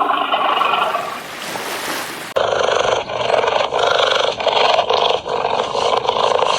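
An animal growling: rough, noisy bursts broken by short pauses, after an abrupt cut about two seconds in.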